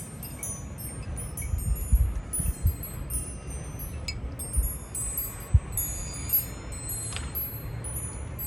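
Metal wind chimes ringing: many light, high-pitched, overlapping strikes, stirred by the storm wind. A low rumble of wind on the microphone runs under them, with a few louder gusts.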